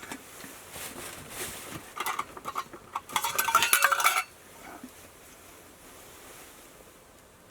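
Metal cookware clinking and clattering, with a few scattered knocks and then a dense, ringing clatter about three to four seconds in that stops abruptly.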